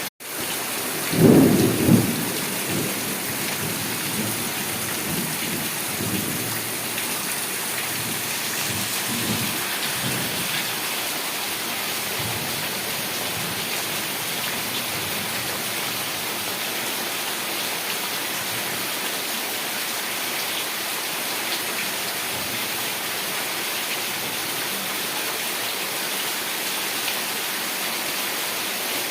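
Heavy rain falling steadily, with a loud crack of thunder about a second in and weaker rumbles of thunder over the next several seconds. The sound drops out for an instant at the very start.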